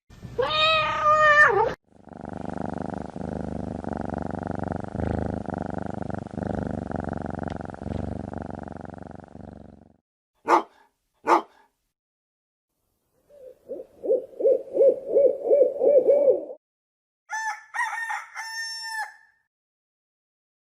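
A run of animal sound effects one after another. It begins with a cat's meow, then a cat purring for about eight seconds and two sharp dog barks. An owl then hoots about ten times in quick succession, and a rooster crows near the end.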